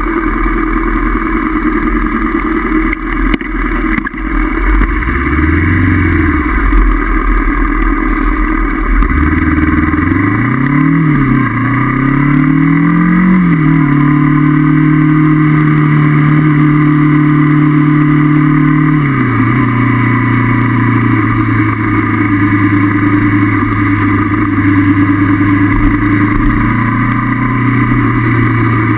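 Honda CB500F's parallel-twin engine under way: the revs rise and fall briefly, then climb in two short rising sweeps, each ended by a gear change. The engine holds a steady pitch for about five seconds, then drops to a lower steady note about 19 seconds in.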